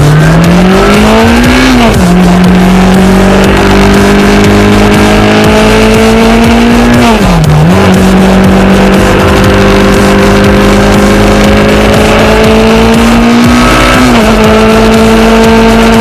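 Motorcycle engine under way. Its pitch climbs steadily under acceleration and dips sharply three times, at gear changes, about two seconds in, midway and near the end, over a steady rush of noise.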